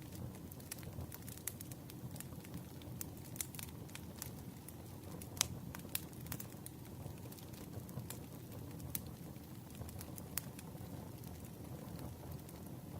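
Campfire crackling: a steady low rush of burning wood with irregular sharp pops and snaps. The loudest pop comes about five and a half seconds in.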